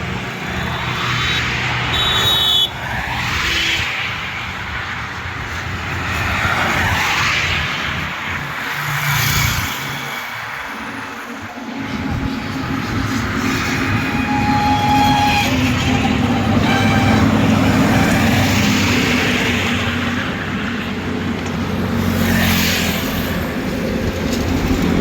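Highway traffic with heavy trucks and other vehicles passing one after another: a steady low engine rumble under swells of tyre and wind noise as each goes by.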